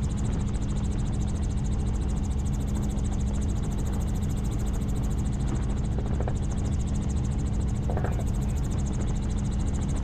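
Helicopter in flight: steady rotor and engine noise with a constant low hum.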